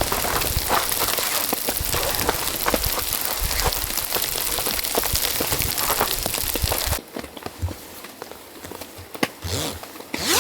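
Heavy rain pattering on a surface, a dense run of drop impacts. It cuts off abruptly about seven seconds in, leaving a quieter stretch with a few scattered knocks and thumps.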